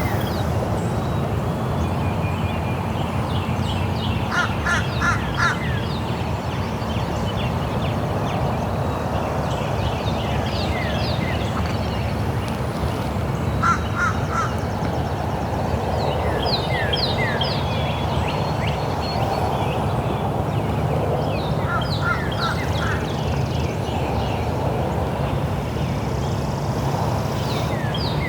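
Birds calling outdoors in short bursts of three or four quick chirps every few seconds, over a steady low background hum.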